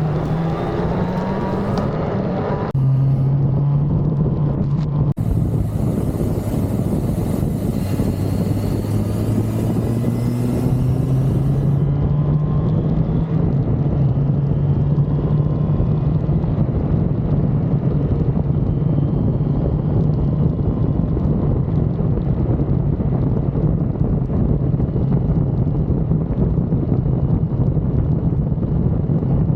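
1985 Suzuki GSX-R750F's oil-cooled inline-four running under way. It gets louder about three seconds in, climbs in pitch for several seconds, then holds a steady note.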